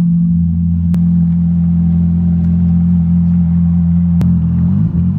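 Ferrari F430's V8 idling steadily on its cold-start warm-up through a straight-piped muffler delete, exhaust coming straight off the catalytic converters. Its tone is deeper and meaner than stock. Near the end the pitch dips and rises briefly.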